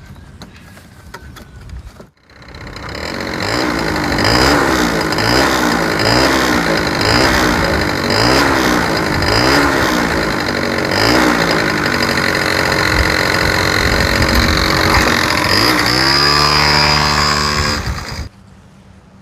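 Honda Leader AF03 scooter's two-stroke engine running and being revved up and down in repeated throttle blips, one a little more than every second. Later the revs hold steadier, then fall to a lower speed before the sound cuts off suddenly.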